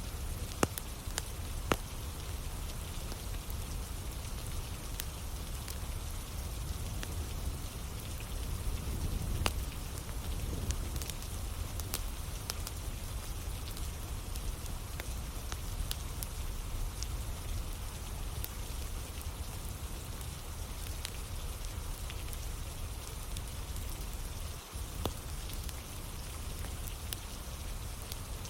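Steady rain with a wood fire crackling, its sharp pops and snaps scattered through the rain, a few louder ones near the start and about nine seconds in.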